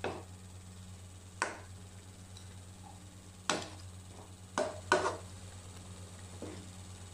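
Wooden spatula knocking against a nonstick wok while stirring a chicken curry: five separate sharp taps spaced a second or two apart.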